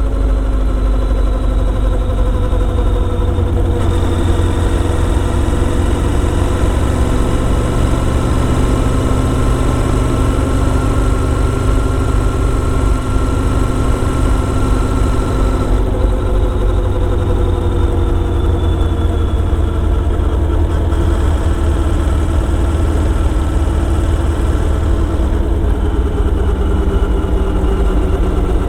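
Motorcycle engine running under way, its note drifting slowly up and down with the throttle, with changes about four seconds in and again about halfway through.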